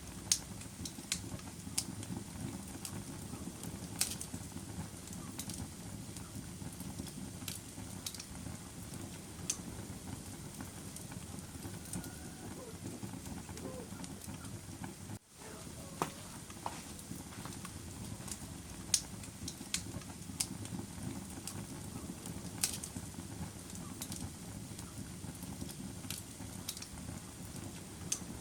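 Wood fire burning in a fireplace: a steady low rush of flames with scattered sharp crackles and pops. The sound drops out for a moment about halfway through, then carries on.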